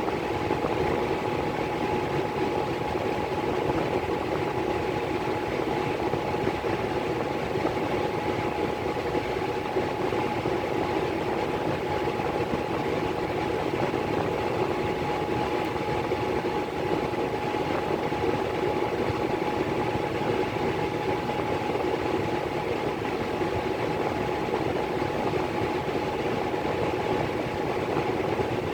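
Miller E3 furnace blower running steadily, a constant rushing hum with a thin steady whine above it.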